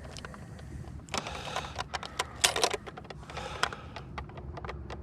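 A quick, irregular run of sharp clicks, taps and light rattles, the sound of hands handling small hard gear, over a low steady rumble.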